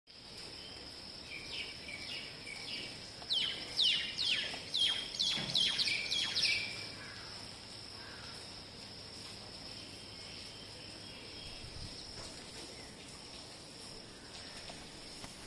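A bird calling: a few short chirps, then a run of about eight loud downward-sliding notes, about two a second, lasting some three seconds, over a steady high-pitched drone.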